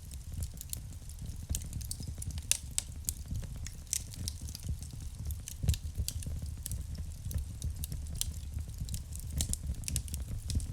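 Wood fire burning in a fireplace: irregular sharp pops and crackles over a steady low rumble of the flames.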